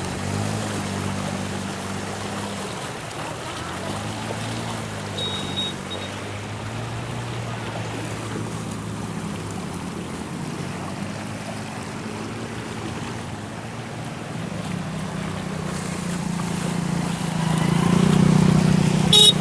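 An engine running over a steady rush of water, its pitch rising and falling several times. It grows louder near the end, and a sharp click comes at the very end.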